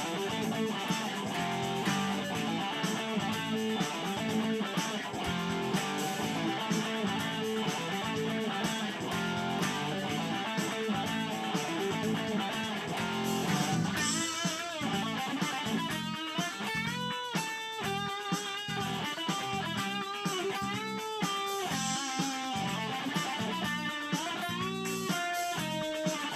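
Instrumental music led by electric guitar. About halfway through, a single-note lead guitar melody with wavering, bent notes comes to the fore.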